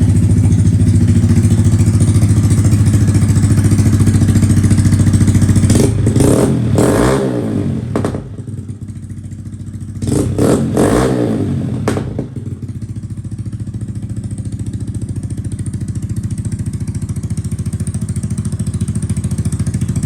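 Honda Grom 125 cc single-cylinder motorcycle engines idling at high idle; about six and ten seconds in the engine note swings up and down twice, then a single engine settles into a steady, quieter idle.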